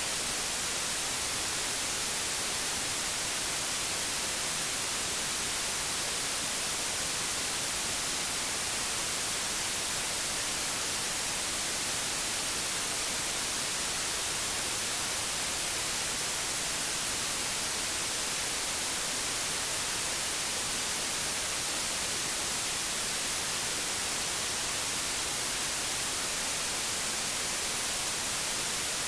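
Analogue television static: a steady, even hiss, strongest in the highs, with no breaks or changes.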